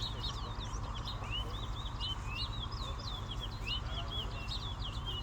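Caged songbirds singing rapid, continuous strings of short whistled chirps that sweep up and down in pitch, over a steady low rumble.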